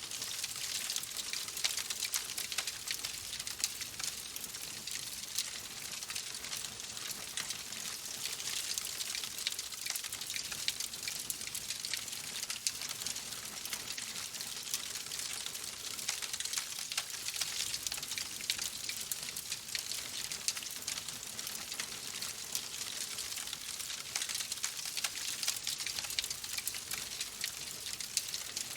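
Wood fire crackling in a fireplace: a steady hiss thick with small, quick crackles and pops.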